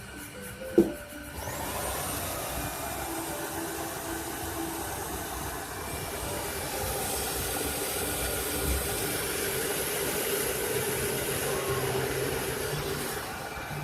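Tineco iFLOOR 5 Breeze cordless wet-dry floor washer switched on with a click, its motor spinning up with a brief rising whine and then running steadily.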